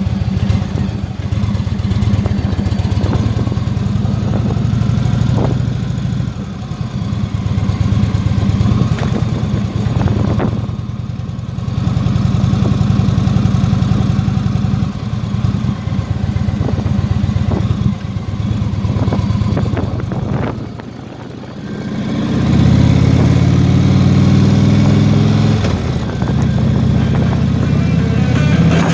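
Motorcycle engine running under way. It eases off about ten seconds in and again about twenty seconds in, then picks up again, rising in pitch as it accelerates.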